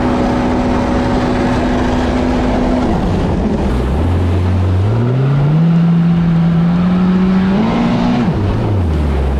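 Stand-up jet ski engine running at steady high revs, then dropping off about three seconds in. It revs back up over the next couple of seconds, holds, rises a little more, and falls back to low revs near the end, over a constant rushing noise.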